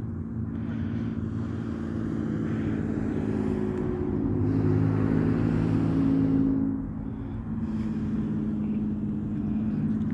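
Road traffic: a car passing close by with engine hum and tyre noise, loudest a little past the middle and fading about seven seconds in, then another vehicle approaching near the end.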